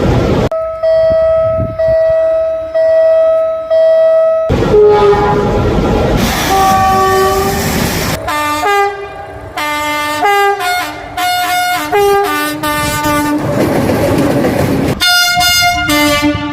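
A rapid series of locomotive horn blasts cut together with noise of a train running: a horn note repeating about once a second for the first few seconds, then shorter blasts jumping between different pitches.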